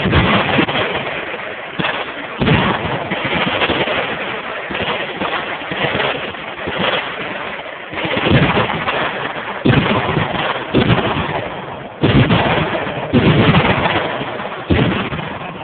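Continuous gunfire from many machine guns firing at once, the shots running together into a constant rattle. Several heavier, louder reports stand out from it at irregular intervals.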